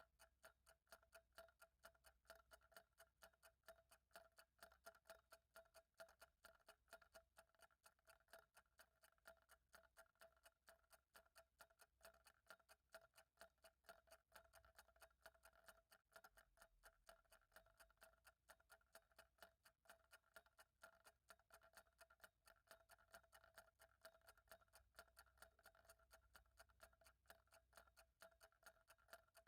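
Faint, evenly spaced ticking of a clock over a faint steady hum.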